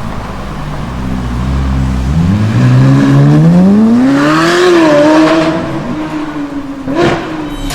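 Ferrari 458 Spider's 4.5-litre V8, breathing through an iPE aftermarket exhaust, running low and then rising smoothly in revs from about two seconds in. It holds high revs, with a short sharp burst near the end.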